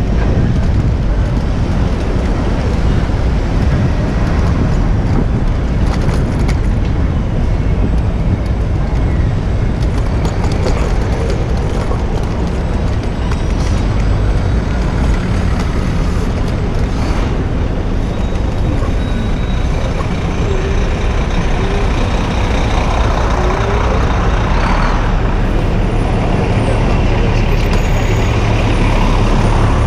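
City street traffic heard from a bicycle riding along the avenue: cars, trucks and buses running past in a steady loud wash, with a heavy low rumble throughout.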